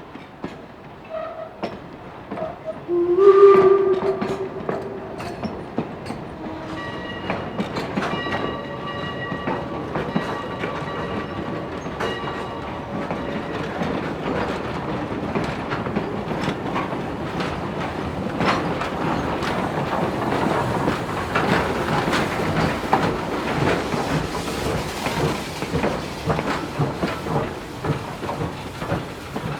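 Pennsylvania Railroad 331, a replica 1868 4-4-0 steam locomotive: a short whistle blast about three seconds in, then its bell ringing for several seconds, then the train rolling by with wheels clicking over the rail joints, louder in the second half.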